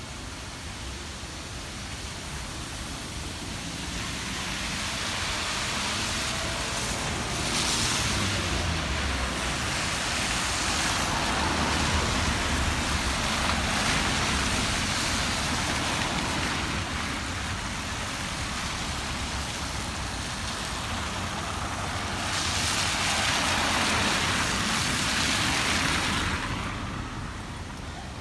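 Road traffic passing, a hiss of tyres and engines that swells and fades as vehicles go by, loudest about a third of the way in and again near the end.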